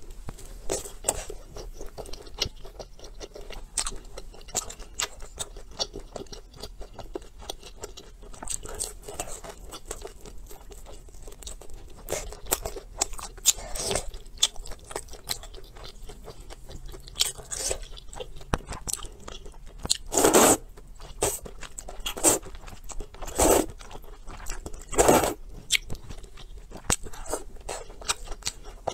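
Close-up eating sounds: wet chewing and biting of spicy noodle soup with rice noodles, tofu and rice cake, with soft clicks throughout. A few louder mouth noises come in the second half.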